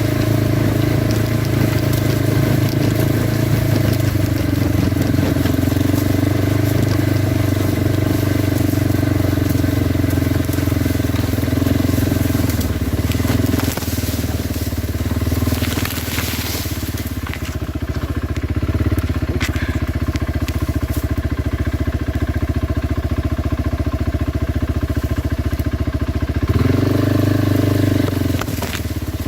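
Kawasaki Brute Force 300 ATV's single-cylinder engine running while riding. The engine note drops about halfway through, then revs up briefly and falls back near the end.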